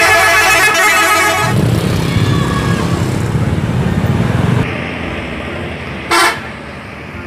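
Horn and engine sounds from a toy Transjakarta bus. A long, loud horn blast cuts off about a second and a half in, a low engine rumble follows, and a short toot sounds near the end.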